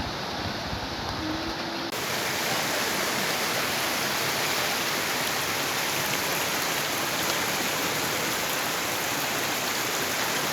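Floodwater of a swollen river rushing steadily. About two seconds in, the sound switches abruptly to a brighter, hissier and slightly louder wash of water.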